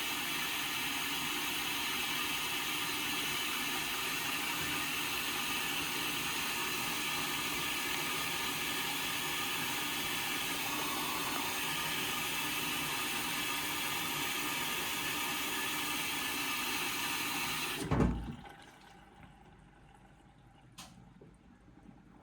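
Indesit washing machine filling at the start of an Express wash: water hisses steadily through the inlet valve into the drum. About 18 seconds in, the flow cuts off suddenly with a low thud, leaving near quiet with a single click a few seconds later.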